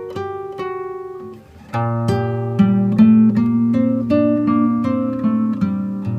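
Background music: a plucked acoustic guitar picking out a melody, growing fuller and louder with a steady low note underneath about a second and a half in.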